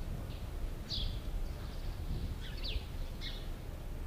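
Birds chirping in short, high calls, five or so spread about a second apart, over a steady low background rumble of outdoor ambience.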